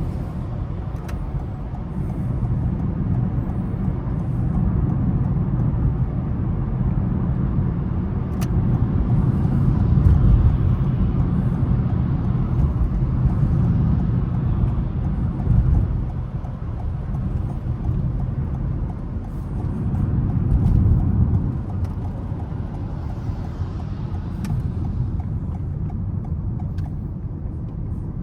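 A car being driven, its engine and tyre noise a steady low rumble that rises and falls with the driving. It is louder about ten seconds in and again around twenty seconds.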